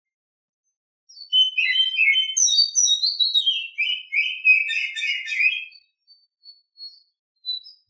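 Female Oriental magpie-robin singing its breeding-season song: starting about a second in, a rapid, varied phrase of whistled and scratchy notes runs for about four and a half seconds, followed by a few faint, thin high notes.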